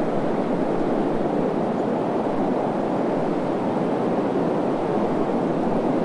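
Desert wind: a steady, even rushing noise that never gusts or breaks.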